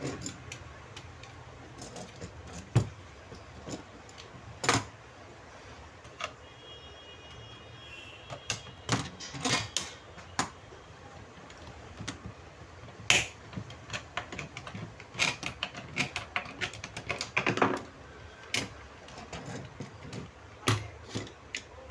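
Irregular metallic clicks, taps and clinks of hand tools and loose parts being handled while a Honda Civic power window regulator is taken apart to remove its motor.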